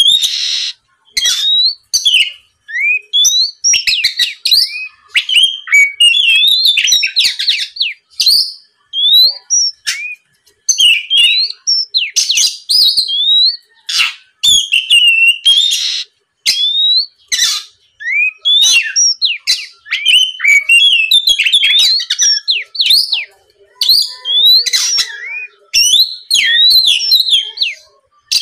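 Oriental magpie-robin singing a loud, varied song: quick whistled phrases that rise and fall, mixed with harsh rasping notes, in bursts with short pauses between them.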